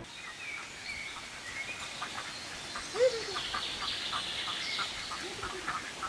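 Birds calling: many short repeated chirps and high twittering, with a louder single quack-like call about three seconds in and another near the end.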